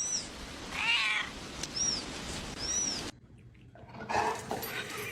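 A domestic cat meows once, about a second in, with a few short high squeaks around it. The sound cuts off suddenly about three seconds in and gives way to a noisier scene.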